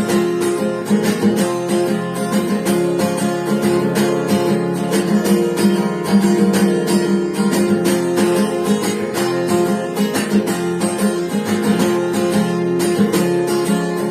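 Acoustic guitar strummed in a steady rhythm, its chords ringing on without any singing.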